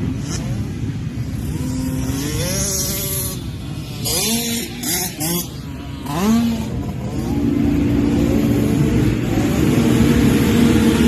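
Motocross dirt bike engines revving hard, the pitch climbing and dropping back several times as the bikes accelerate and shift, then holding a steadier high note from about halfway through.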